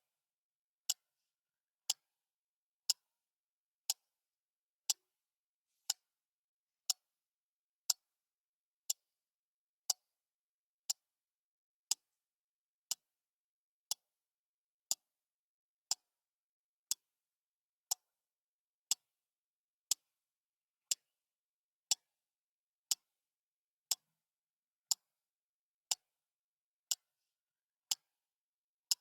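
Clock ticking steadily, one short, sharp, bright tick each second, with nothing heard between the ticks.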